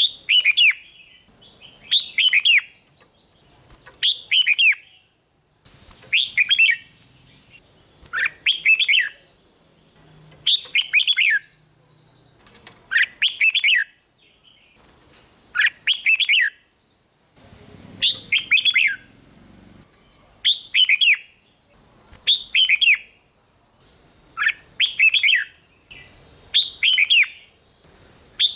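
Red-whiskered bulbul singing short phrases of quick, warbling notes, one phrase about every two seconds.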